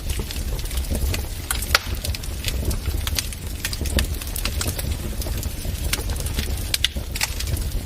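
Wood fire burning in a fireplace, crackling and popping with many sharp, irregular snaps over a steady low rumble of flames.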